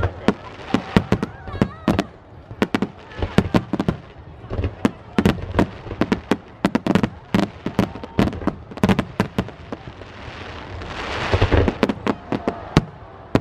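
Aerial fireworks shells bursting directly overhead in quick succession: many sharp, loud bangs, often several a second, with a swell of crackling near the end.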